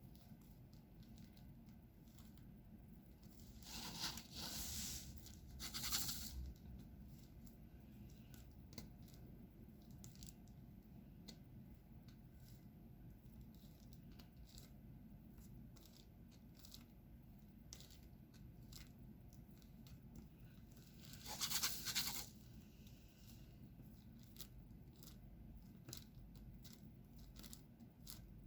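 Diamond painting work: faint, frequent small clicks as the drill pen picks up and presses resin drills onto the sticky canvas. There are a few louder scraping, rustling bursts about four and six seconds in and again just past twenty seconds.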